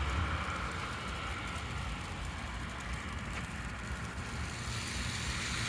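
Road traffic at a street crossing: vehicles going by with a steady low rumble, and a tyre hiss that grows a little toward the end.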